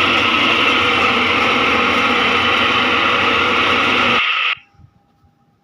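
Washing machine running on a test after repair: a loud, steady churning noise that cuts off abruptly about four seconds in.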